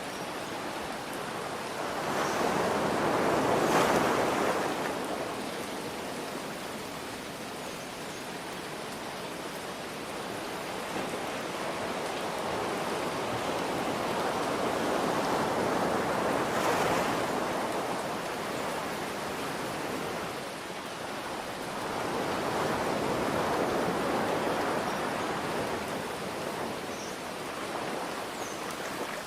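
Ocean waves breaking and washing in three times, each swell rising and fading over several seconds, over a steady hiss of rain.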